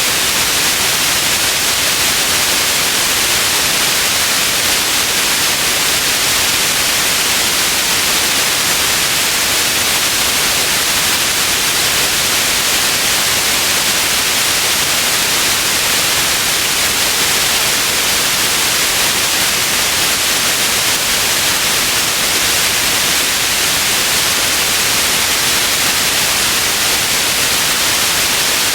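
Steady white noise, an even hiss that stays the same throughout, weighted toward the high end.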